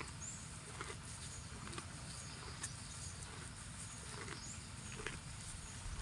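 A cow grazing: short crunchy rips and chews of grass, roughly one a second at uneven spacing, over a faint steady chirring of insects.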